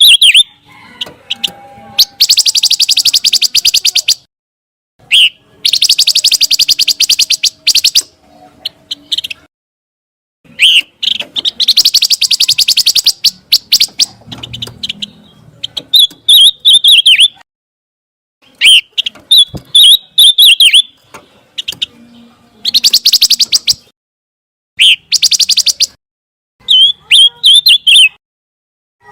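Recorded song of a pancawarna bird: rapid, buzzy trills of about two to three seconds alternate with shorter chattering phrases, each phrase followed by a brief silence. This is a loud, clean master recording looped for songbirds to learn from.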